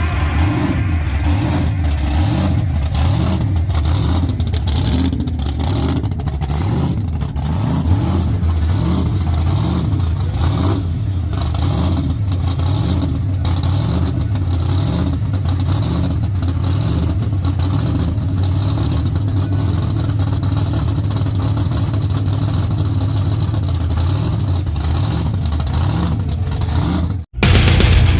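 A car engine running with a steady deep rumble, its tone wavering slightly up and down. The sound cuts off abruptly about a second before the end.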